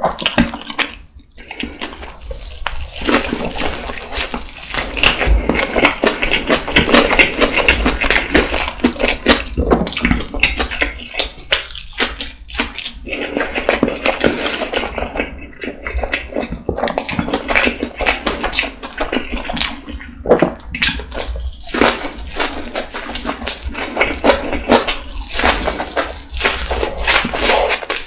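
Close-miked chewing of kimbap (seaweed-wrapped rice rolls): a dense, continuous run of mouth clicks and smacks, with a brief pause about a second in.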